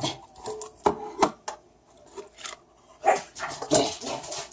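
Dogs barking and yelping, excited while their food is being dished up, with a few sharp clicks and clatters in the first second or so; the barking gets louder and denser from about three seconds in.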